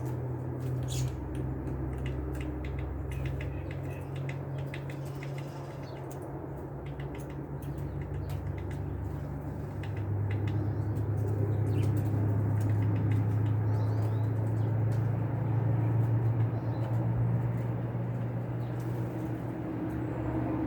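Small wild birds at a feeder: scattered sharp taps and wing flutters with a few faint chirps, over a steady low hum that grows louder about halfway through.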